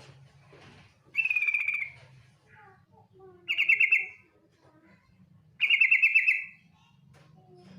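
Female yellow-vented bulbul (trucukan) giving its rapid trilling call: three short, loud trills about two seconds apart, with faint softer notes between them.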